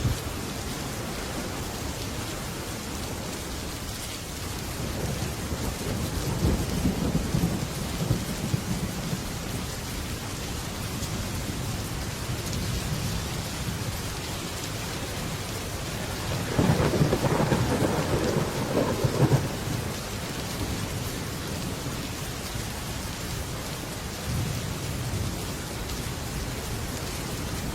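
Heavy rain falling on a metal roof as a steady hiss, with thunder rumbling several times, the loudest roll just past the middle.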